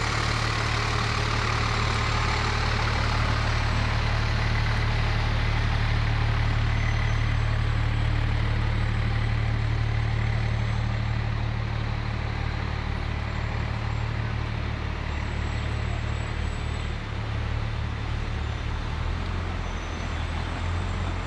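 Heavy fire truck's diesel engine running steadily at low revs, with a deep steady hum; the engine note shifts near the end.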